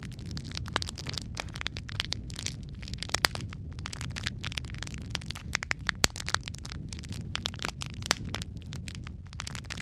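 Wood fire in a fireplace crackling, with many sharp irregular pops and snaps over a steady low rumble of the flames.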